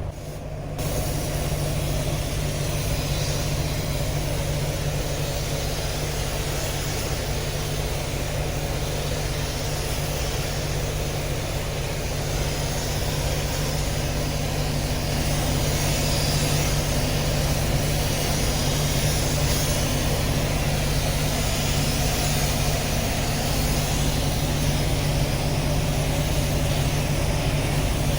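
A steady low motor drone with a constant hiss over it, unchanging throughout.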